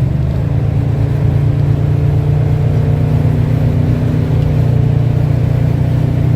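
1997 Chevrolet Silverado's stock 5.7-litre V8 accelerating under heavy throttle through a Dynamax bullet muffler, a deep exhaust drone heard from inside the cab, its pitch rising slowly as the truck gains speed.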